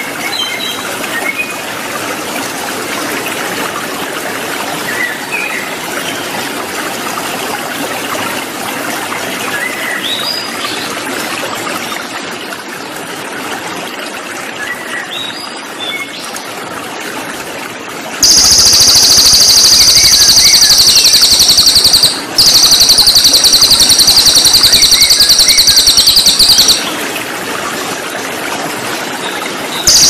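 Cililin bird calling over steadily flowing water: scattered faint chirps at first, then about two-thirds of the way in a very loud, high, rapid buzzing trill that runs for several seconds with one short break.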